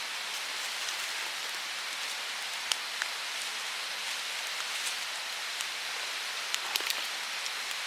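Steady rain falling, with scattered sharp drop ticks on a nearby surface.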